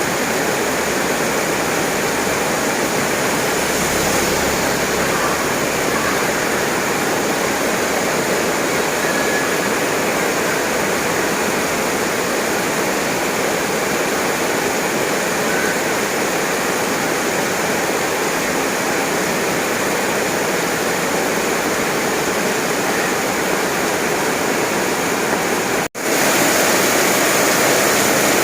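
Heavy rain pouring down in a steady hiss, briefly cutting out near the end and resuming a little louder.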